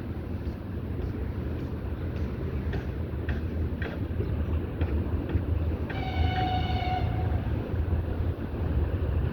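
Freight train hauled by a VL85 electric locomotive running, with a steady low rumble and wheels knocking over the rail joints in separate clicks. About six seconds in, a high steady tone sounds for about a second.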